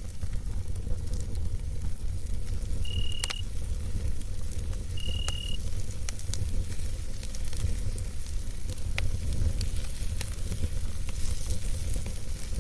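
Campfire crackling, with scattered sharp pops over a steady low rumble and hiss. Two short high-pitched cricket chirps, about two seconds apart, sound near the start.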